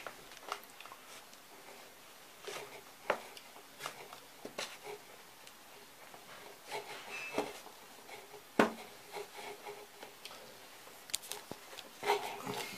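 Scattered light clicks, taps and rubbing from small objects being handled at a workbench, with one sharper knock about eight and a half seconds in.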